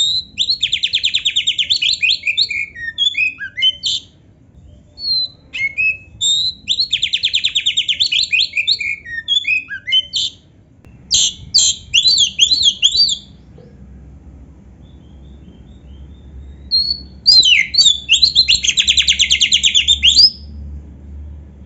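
Oriental magpie-robin (kacer) singing in four loud bursts of varied whistles and fast buzzy trills, the trills sounding like a canary's song. There is a pause of a few seconds before the last burst.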